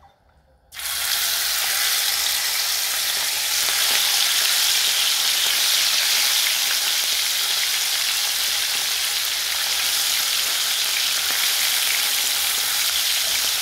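Sliced chicken gizzards dropped into hot oil in a frying pan: a sudden sizzle starts a moment in and settles into steady frying while a spatula stirs them.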